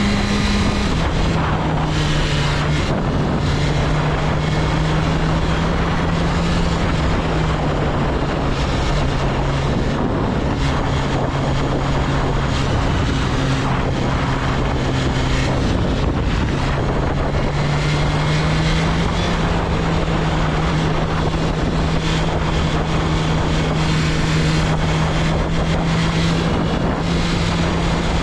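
BMW S1000RR's 999cc inline-four engine running at steady cruising revs under way, with wind rushing over the microphone. The engine note drops about a second in and climbs a little past the middle.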